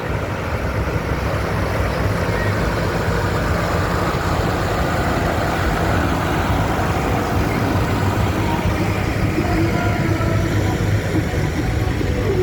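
Tractor engines running steadily as tractors drive past in a parade, a continuous low rumble.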